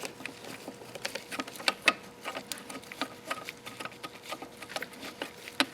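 Irregular light clicks and taps of bolts and parts being handled while trying to fit them into a motor mount.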